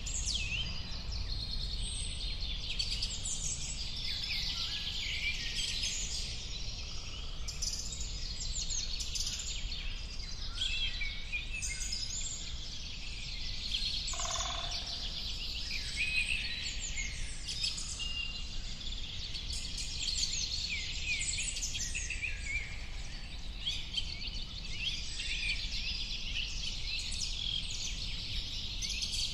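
Many birds chirping and singing at once in a dense, continuous chorus of high, quick calls, with a brief lower call about halfway through, over a steady low background rumble.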